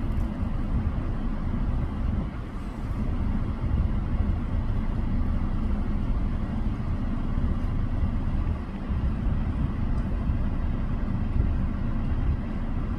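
Steady low rumble of a car on the move: road and engine noise with no distinct events.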